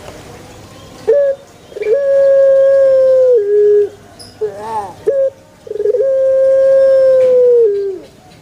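Puter pelung dove (Streptopelia risoria) cooing. It gives a short note, then a long, loud coo held on one pitch that drops at its end, a rolling gurgled note, and a second long held coo that also drops at its end.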